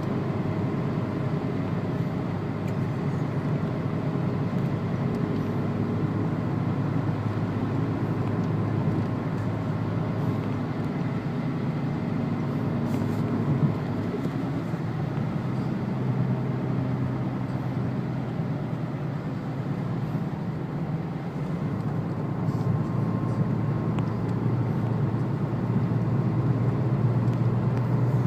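In-cabin sound of a Renault Laguna wagon's 2-litre turbo diesel running steadily under a haze of tyre and road noise. The engine note firms up and grows louder in the last few seconds as the car speeds up.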